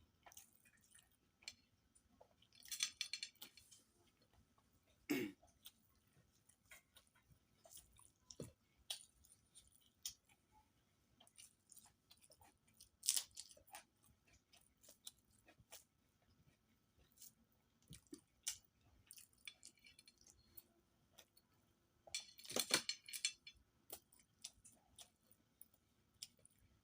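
A person eating close to the microphone: soft chewing and mouth clicks throughout, with two louder crunchy spells about three seconds in and again about twenty-two seconds in, and a sharp click with a short falling low tone about five seconds in.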